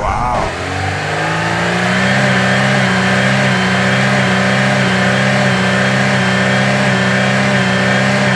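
Vehicle engine sound effect that revs up during the first second or two and then runs steadily at an even pitch.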